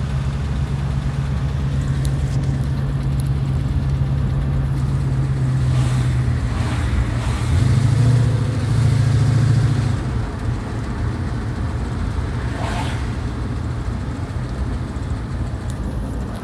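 1965 Ford Mustang's V8 heard from inside the cabin while driving at town speed. It runs steadily, grows louder for about two seconds a little past halfway as it pulls harder, then eases back.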